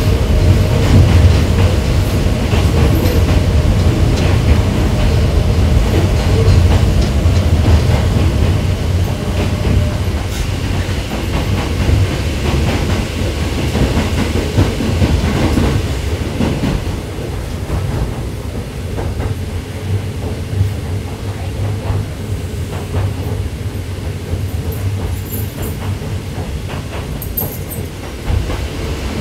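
Hakone Tozan Railway electric train running down the mountain line: a steady low rumble with wheels clicking over the rail joints. A faint steady whine fades out about ten seconds in, and the running gets a little quieter after about seventeen seconds.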